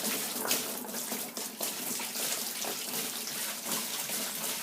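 Running water splashing steadily into a container.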